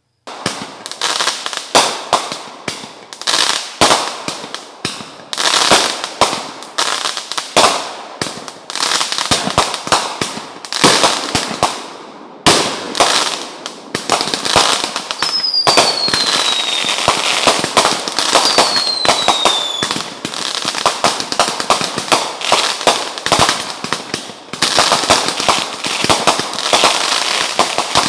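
Fireworks going off in rapid succession: a dense run of bangs and crackling that starts suddenly. Two falling whistles sound one after the other in the middle.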